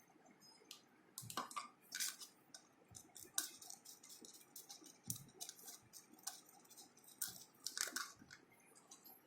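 Slime being squeezed and worked by hand: faint, irregular wet squishes and small crackling clicks.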